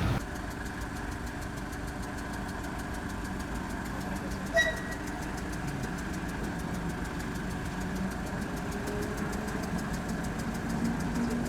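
Steady low hum of an idling engine, with one short high beep about four and a half seconds in.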